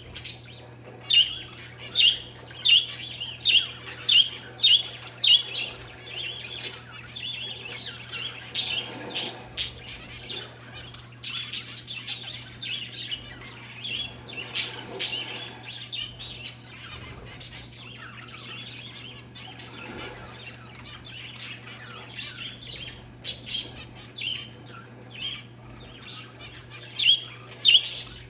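Pet parakeets and zebra finches chirping: a regular run of sharp, high chirps in the first several seconds, then scattered chirps and calls, busier again near the end.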